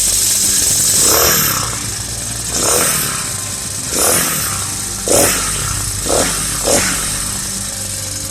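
Small single-cylinder four-stroke engine (a Huasheng 142F, GXH50-type) running and being revved in short blips, about six times, each rising and falling in pitch, the last three close together.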